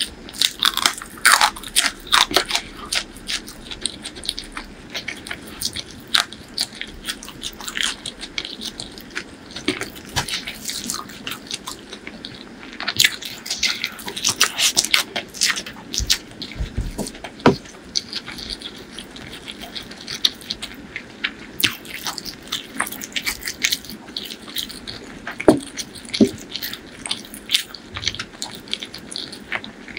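Close-miked eating: crunching bites of a raw green chilli and mouthfuls of rice with a crispy fried topping, chewed with many sharp crunches and crackles throughout.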